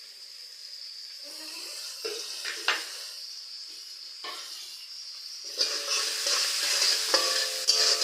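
Vegetables frying in hot oil with a steady sizzle, while a utensil stirs and knocks against the pan. The sizzle and stirring get louder about five and a half seconds in.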